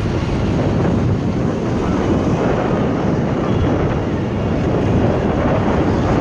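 Steady, loud rush of water pumped over a FlowRider surf machine's wave surface, with no break or change.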